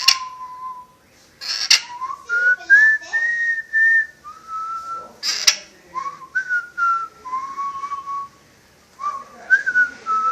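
A string of whistled notes, some held and some sliding up or down, in a tune-like run, broken by a few short, sharp noisy bursts.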